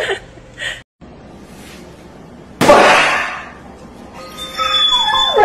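A single sudden loud bang that dies away over about a second, followed near the end by chiming music notes.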